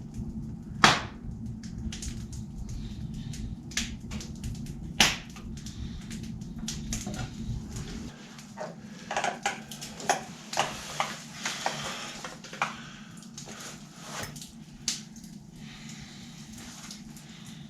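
Wood fire crackling and popping in a fireplace: irregular sharp pops, with two louder ones about one and five seconds in and a denser run of crackle past the middle.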